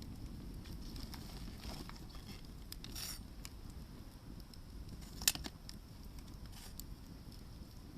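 Hardwood firewood burning in a campfire: scattered faint crackles and a few sharp pops, the loudest about five seconds in, over a low steady rumble.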